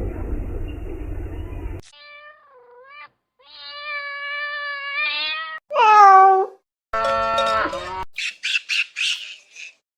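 Low rumbling noise that cuts off after about two seconds, then a domestic cat meowing four or five times, the loudest call about six seconds in, falling in pitch. Near the end comes a rapid run of short, high squawks.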